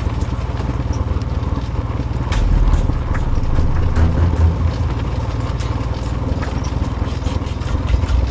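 ATV engine running steadily at low speed over rough ground, with frequent sharp clicks and rattles.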